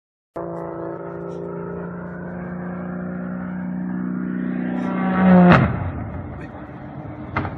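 Aircraft engine drone growing louder as the plane approaches, peaking in a close low flyby about five and a half seconds in, where the pitch drops sharply as it passes, then fading into rushing noise. A short sharp click comes near the end.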